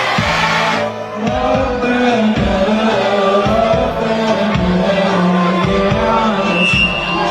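Choir singing an Arabic Christmas hymn with instrumental accompaniment over a steady low beat.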